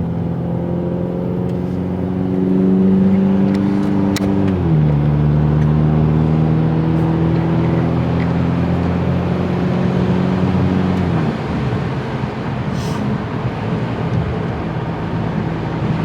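Ford Mustang EcoBoost's turbocharged 2.3-litre four-cylinder engine pulling steadily while driving; its pitch steps down about five seconds in and again about eleven seconds in, as it shifts up. After the second step the engine tone fades into steady road noise.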